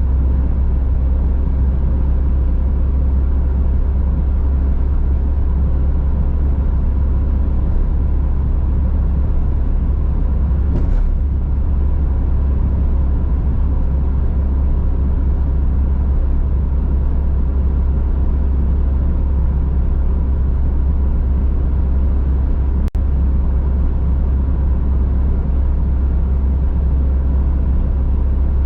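Steady road noise of a car driving: a constant low rumble from engine and tyres, with a faint steady hum above it and two brief faint clicks, one about a third of the way in and one near three quarters of the way.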